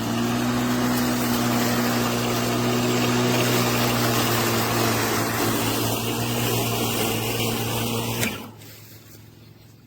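LawnMaster brushless cordless lawn mower running and cutting high grass, a steady motor hum at constant pitch under the hiss of the blade through the grass, holding speed without bogging down. It shuts off abruptly about eight seconds in.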